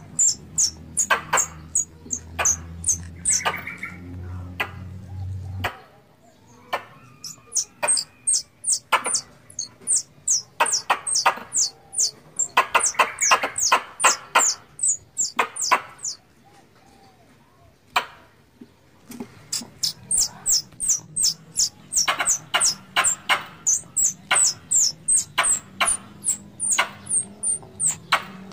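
Squirrel calls: long series of short, sharp, high-pitched chips, each sliding down in pitch, repeating about three a second, with a couple of brief pauses. A low hum underneath stops abruptly about six seconds in.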